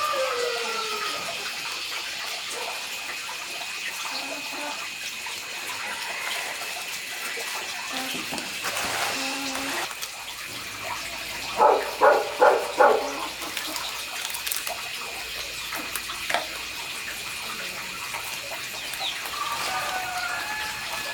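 Water running or splashing steadily, with four short, loud animal calls in quick succession about halfway through.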